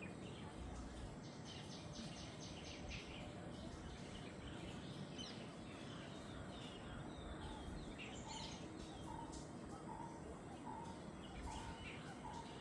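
Jungle birds calling over a steady background hiss: a quick run of high notes about a second in, scattered chirps, and from about two-thirds through a short lower note repeated roughly every half second.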